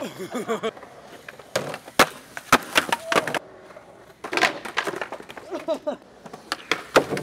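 Skateboard tricks: a run of sharp wooden pops and clacks from the deck and wheels striking the ground, a cluster about two seconds in and another pair near the end, with voices calling out in between.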